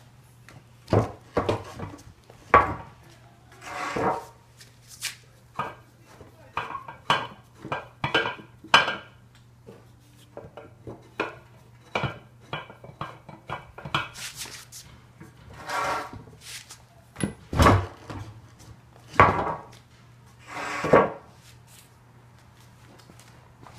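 Metal hand tools clanking, knocking and scraping irregularly against a motorcycle wheel rim and tyre while the tyre bead is being broken off the rim by hand, with some longer half-second scrapes among the sharp knocks.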